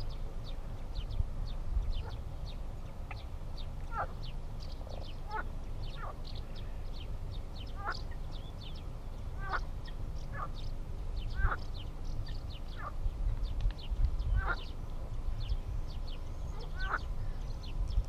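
Birds calling: a steady scatter of short high chirps, with louder calls that drop in pitch every second or two, over a low rumble.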